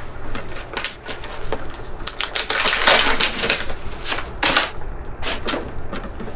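Paper and packaging rustling and crinkling in many short, irregular crackles as a note is taken out and unfolded.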